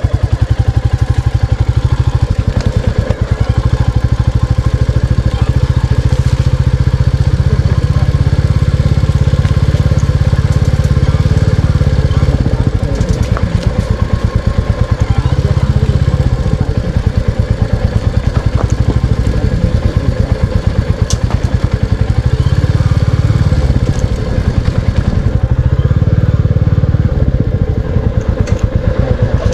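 Royal Enfield Classic 350 Reborn's single-cylinder engine thumping at low speed while being ridden, the engine note swelling and easing several times with the throttle.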